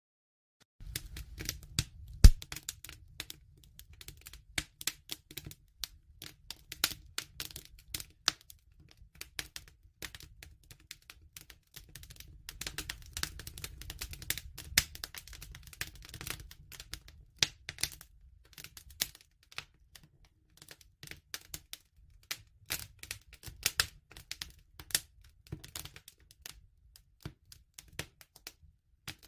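Wood fire crackling: irregular sharp pops and snaps over a low rumble of the flames, starting about a second in, with one louder pop about two seconds in.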